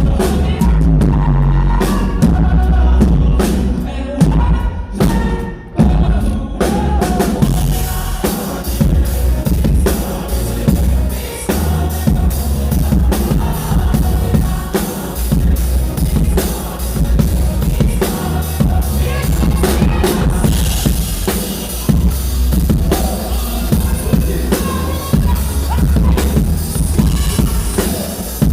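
Loud live pop-rock band with a drum kit, kick and snare driving the beat. The music thins briefly about five seconds in, then the full band comes back in and grows fuller and brighter in the second half.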